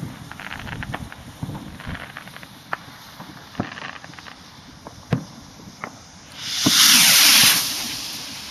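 Scattered sharp pops, then about six seconds in a loud hissing rush as firework rockets launch from a launch tube, tailing off over the next second.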